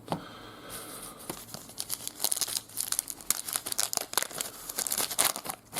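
A trading card pack wrapper being torn open and crinkled by hand, a dense run of crackling rustles.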